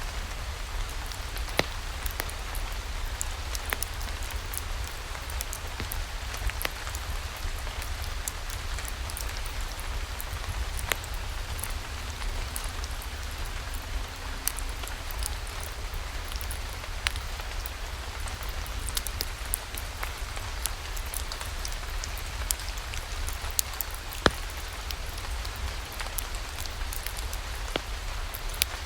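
Steady rain falling, with scattered sharp clicks at irregular intervals.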